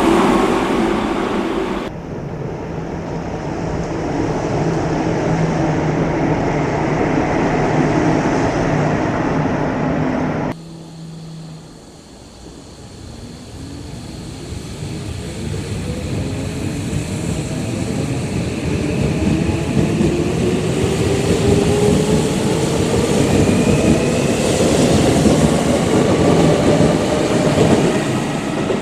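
Electric commuter trains in a station: a train running past, then after an abrupt cut a train running steadily. After a second cut, a train's traction motors whine in several tones that rise together as it gathers speed, growing louder toward the end.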